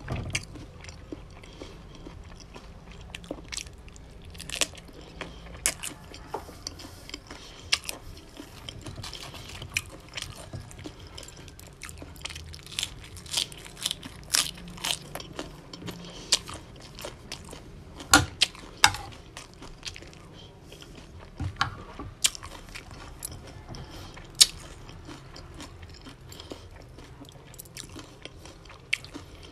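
Close-miked chewing of raw salmon salad: many sharp, wet mouth clicks and smacks at irregular intervals, a few of them much louder.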